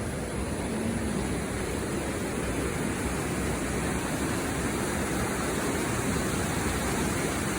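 Water rushing steadily over a check dam, the stream swollen by rain and spilling across the weir in an even, unbroken noise.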